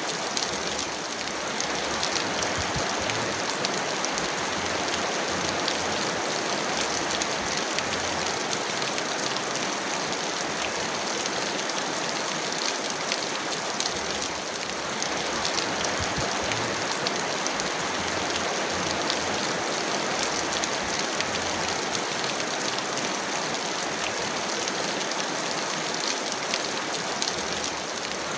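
Heavy rain falling steadily: a dense, even hiss full of fine drop ticks.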